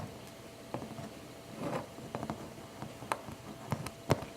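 Faint, scattered clicks and light taps of small watchmaker's tools working on a quartz watch movement while debris is cleaned off it, with a softer rustle about halfway through.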